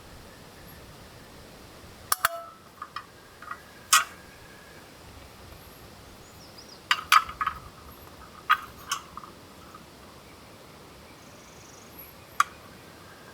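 Scattered sharp clicks and light knocks of camp gear being handled, in small clusters about two, four, seven and nine seconds in and once more near the end, some with a brief faint ring. Under them runs a steady background hiss.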